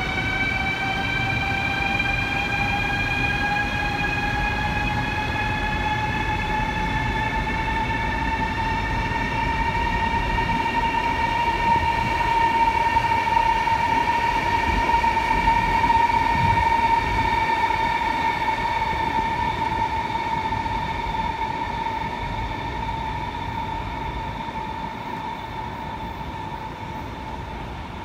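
High-speed electric multiple-unit train pulling out of a station: its traction motors whine, rising in pitch as it accelerates and then holding a steady tone, over a low rumble of the wheels on the track. The sound grows louder toward the middle and fades near the end as the train moves away.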